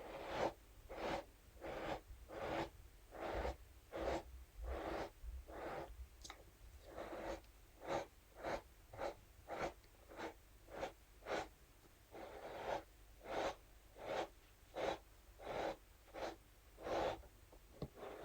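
Scalp massage brush scratched back and forth over a surface in short, even strokes, about one and a half to two a second; the strokes come a little faster in the middle and draw out longer about twelve seconds in.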